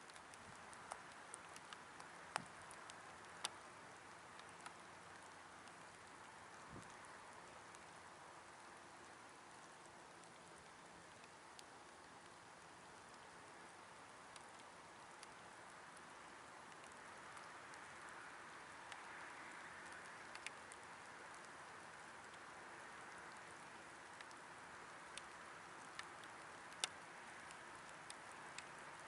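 Faint light rain: a steady hiss with scattered small ticks of drops.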